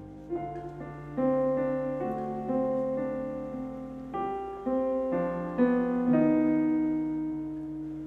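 Slow piano chords, each struck and left to ring and fade, about eight in turn.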